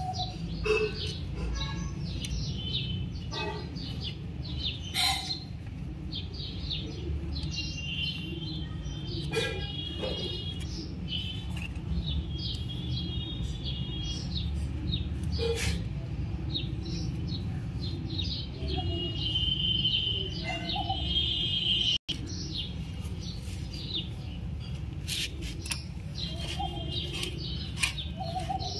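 Small birds chirping repeatedly over a steady low rumble, with a few sharp clicks.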